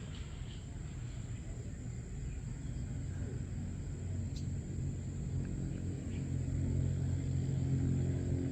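Low engine rumble, like a vehicle running, that grows louder in the last few seconds.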